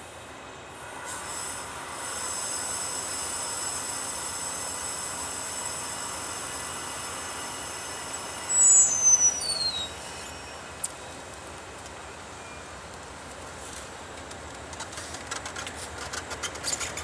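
Train rolling slowly past, its steel wheels squealing high on the rails, with a few loud falling squeals about nine seconds in. Near the end the wheels clack over rail joints.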